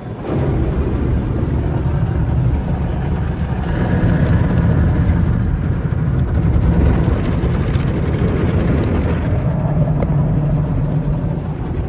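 Automatic tunnel car wash equipment working over the car, heard from inside the cabin: a loud, steady, deep rushing noise that comes on suddenly just after the start.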